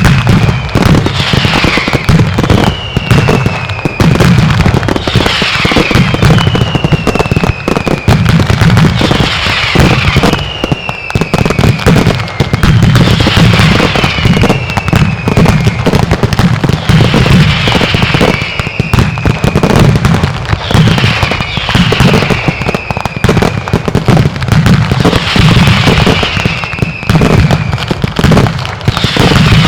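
Mascletà fireworks: a continuous, rapid barrage of loud salutes and firecracker reports, with whistles falling in pitch recurring about every two seconds through the bangs.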